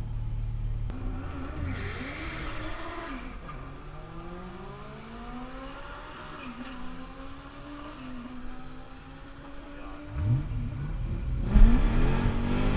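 Car engines revving and running, pitch sliding up and down. About ten seconds in, one engine revs up sharply, and a second later a car launches hard with a loud burst of noise, its engine pitch climbing.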